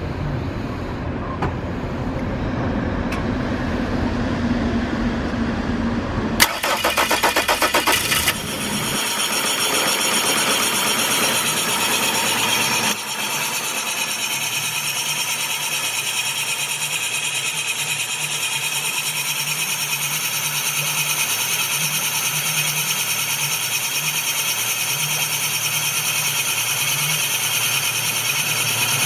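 The engine of a Yamaha FC-23HT boat is cranked by its starter for about two seconds, catches, and settles into a steady idle. Before the start there is a steady rumbling noise.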